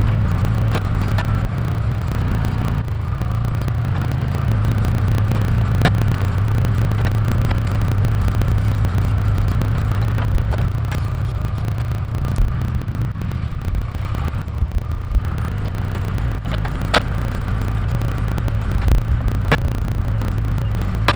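Case 580K backhoe's diesel engine running steadily under load while digging out tree roots, with a few sharp knocks over the engine drone.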